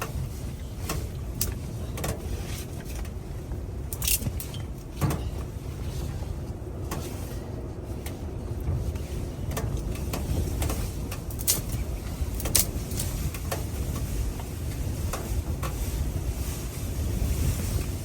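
Strong wind rumbling and buffeting against the microphone, with scattered sharp clicks and taps through it.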